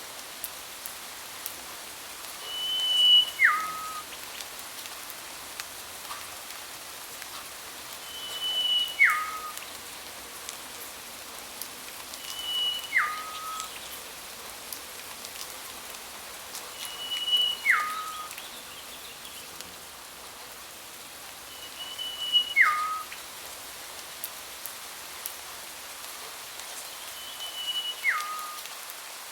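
A bird repeating the same two-part whistled call six times, about every four to five seconds: a short level high note, then a lower note that drops sharply in pitch and ends on a brief held tone. Behind it runs a steady hiss with faint scattered ticks, like rain.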